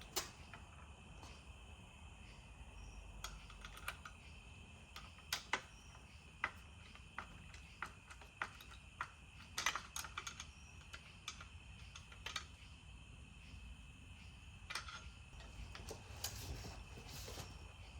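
Faint, irregular clicks and taps of a hand tool and socket working as screws are tightened into a trolling-motor quick release bracket.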